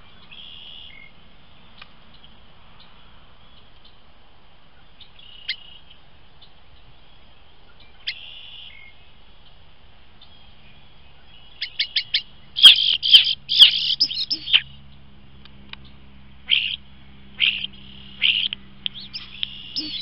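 An unidentified bird perched right on top of a trail camera, calling very close to the microphone. A few faint calls come first. About twelve seconds in there is a quick run of short chips, then a burst of loud calls, then more calls spaced out toward the end.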